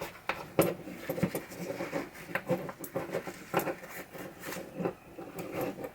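Irregular scratchy rubbing and scrubbing with scattered small clicks and knocks: a pinball drop-target assembly being cleaned by hand.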